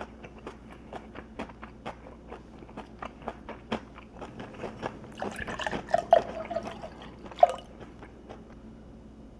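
Close-miked chewing of crunchy food, a quick run of small crunches, then about five seconds in a couple of seconds of wet, liquid mouth sounds with two sharper louder moments.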